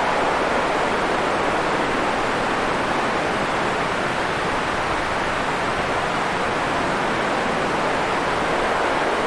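Continuous white-noise track: a steady, even hiss weighted toward the middle range, with no change in level or texture.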